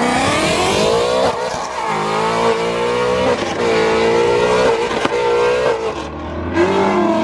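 A car's engine accelerating hard. It revs up and drops in pitch at each gear change, three or four shifts in quick succession, with a brief lull near the end.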